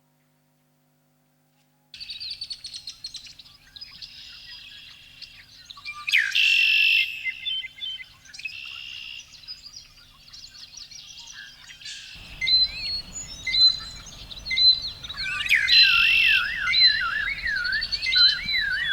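Birds chirping and singing, several calls overlapping, starting about two seconds in. Past the middle a low background rumble comes in, and near the end a rapid, warbling up-and-down song comes to the front.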